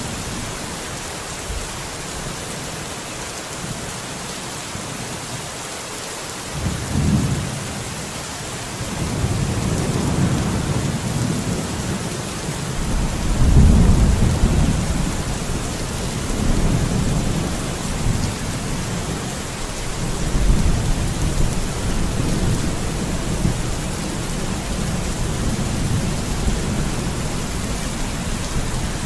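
Steady rain falling, with thunder rumbling in deep rolling waves that start about seven seconds in and peak near the middle.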